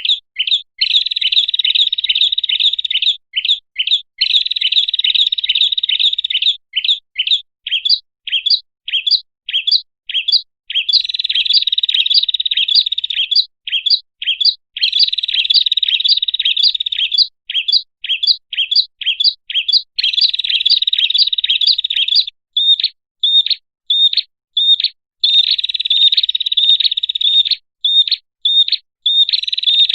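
Recorded prenjak (prinia) lure call: runs of fast, high, sharp chirps, broken every few seconds by strings of spaced single chirps and short pauses.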